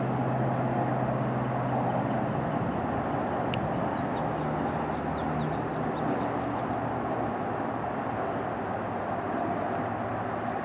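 Cessna Citation CJ1 business jet on approach to land, its twin turbofan engines making a steady jet noise. A low hum under it fades out after a couple of seconds, and a run of short high chirps comes in from about a third of the way through for a few seconds.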